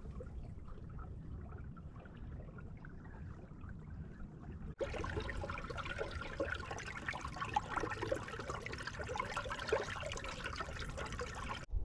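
Running water, trickling and splashing, starting suddenly about five seconds in after a low wind-like rumble, and cutting off just before the end.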